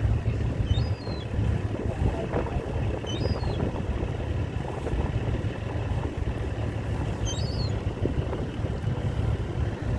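Steady low outdoor rumble with wind noise, and a bird giving short chirping calls three times, about one, three and seven seconds in.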